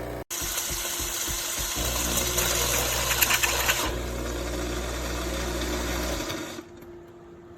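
Fully automatic espresso machine running, a loud mechanical whirr with a rattling stretch in the middle, which cuts off about six and a half seconds in, leaving a quieter steady hum.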